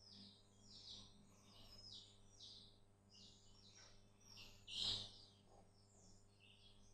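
Faint bird chirping: short chirps, each falling in pitch, about two a second, over a low steady hum. A brief, slightly louder sound comes about five seconds in.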